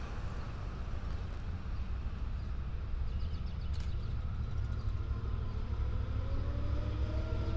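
Long Island Rail Road diesel locomotive with a steady low rumble; about two-thirds of the way in its pitch starts rising slowly as it throttles up.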